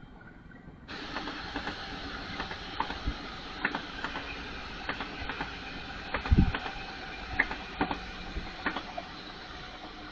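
A train running past on the tracks: a steady rolling noise with a hum, and irregular wheel clicks and knocks over the rails, the loudest a heavy thump about six seconds in. The sound jumps up suddenly about a second in.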